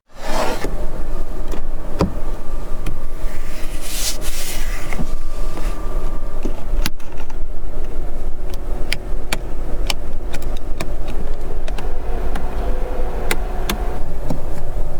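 Steady low rumble of vehicle noise with scattered sharp clicks and ticks.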